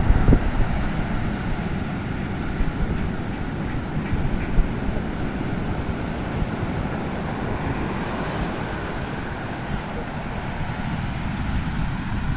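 Wind buffeting the microphone over the steady rush of heavy surf breaking on the beach, easing a little in the middle and strengthening again near the end.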